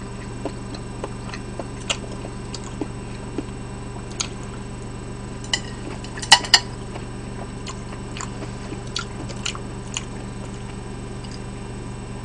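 A person chewing a bite of Chinese corn sausage close to the microphone, with scattered small mouth clicks and smacks and two sharper clicks about six seconds in, over a steady low hum.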